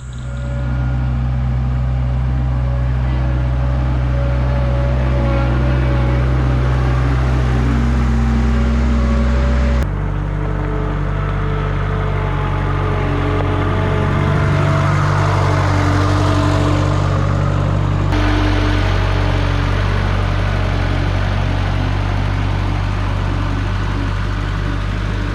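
Toyota SDK7 skid steer's engine running steadily at work speed. The sound shifts abruptly twice, about ten and eighteen seconds in.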